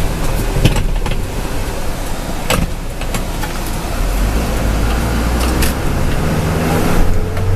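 Truck engine running with a steady low hum, with several sharp clicks or knocks over it.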